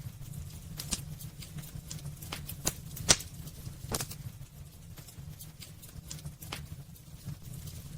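Wood fire burning in a fireplace: irregular sharp crackles and pops, one louder pop about three seconds in, over a steady low rumble of the flames.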